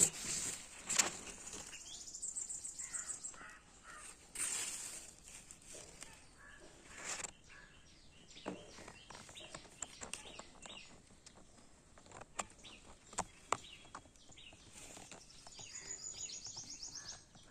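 Birds calling in short chirping notes, with a fast high trill twice, among scattered clicks and knocks.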